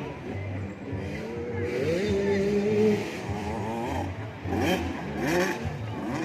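Two-stroke 85cc motocross bikes racing, their engines revving up and down through the gears, with a clear climb in pitch about two seconds in and again near five seconds.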